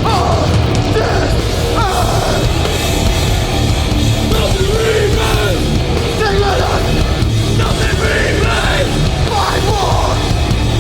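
Hardcore band playing live at full volume, with distorted guitars, bass and drums under shouted vocals.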